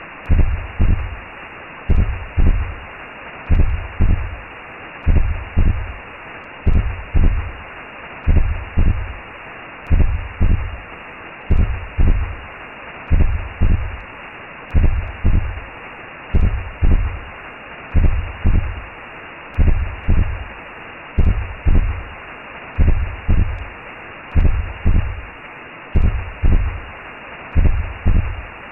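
Recreated womb sound: a steady rushing hiss with a slow double heartbeat thumping low underneath, one lub-dub pair about every second and a half.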